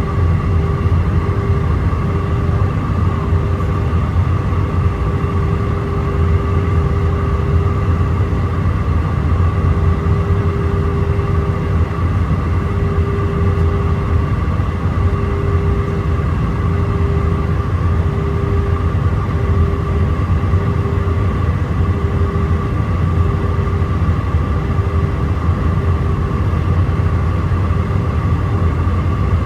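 Steady cabin noise inside an Airbus A319-131 airliner in flight: a heavy low rumble of its IAE V2500 turbofan engines and airflow, with a constant hum tone riding on top.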